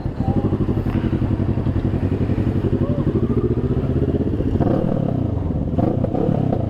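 Motorcycle engine running at low revs, with a steady pulsing exhaust beat.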